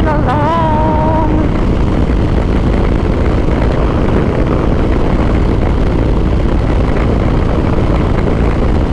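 Steady wind rush on the microphone over a Harley-Davidson motorcycle running at highway cruising speed. A brief wavering tone sounds in the first second or so.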